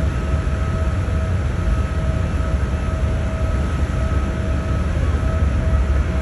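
A BC Ferries ship's engines and machinery running under load, a deep steady rumble with a constant whine on top.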